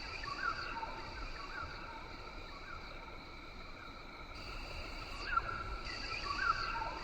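Rainforest ambience: a steady, many-pitched insect drone with short chirping calls scattered through it, over a low rumble.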